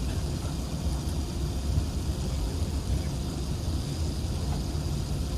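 Steady cabin noise inside an Emirates Airbus A380-861 with its Engine Alliance GP7270 engines running: an even low rumble of engines and airflow with a faint hiss and thin steady hum tones, without any build-up in loudness.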